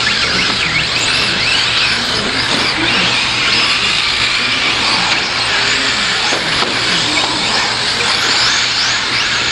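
Several 4WD radio-controlled short course trucks racing together, their motors making many overlapping whines that rise and fall as they speed up and slow down, over a steady din of tyres and track noise.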